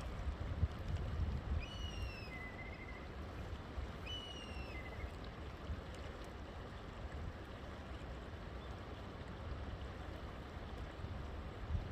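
River water flowing in a steady rush. A bird calls twice, about two and four seconds in, each call a short falling whistle followed by a lower note.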